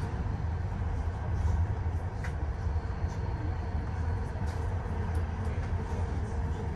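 Diesel-hauled passenger train in motion: a steady low rumble with a few light clicks.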